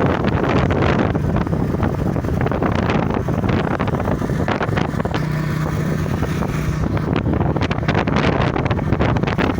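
Motorcycle engine running under way, with wind rushing over the microphone. The engine note holds fairly steady, and a steadier tone holds for a couple of seconds midway.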